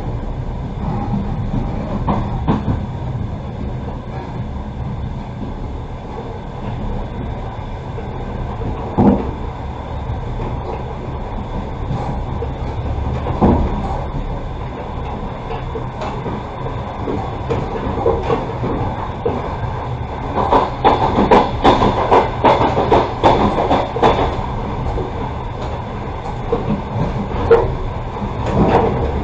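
Passenger train coach running along the track, heard from inside: a steady low rumble with occasional single wheel clicks, then a rapid run of clattering wheel clicks and knocks about two-thirds of the way through.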